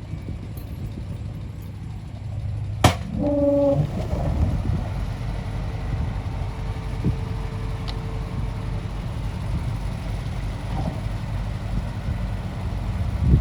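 Heavy diesel engine of earthmoving machinery running steadily, with a sharp metallic knock about three seconds in, followed by a short pitched tone.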